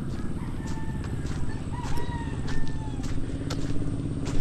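A rooster crowing, with long drawn-out calls in the first three seconds, over the steady hum of an engine running.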